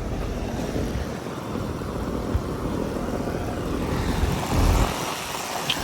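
York LX Series 4-ton central air conditioner condenser running, its fan blowing air in a steady whoosh. A few low thumps, about midway and again near the end.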